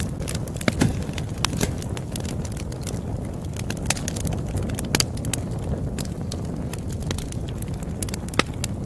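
Campfire burning with a steady low rumble and irregular crackles and pops, a few louder snaps about a second in, around the middle and near the end.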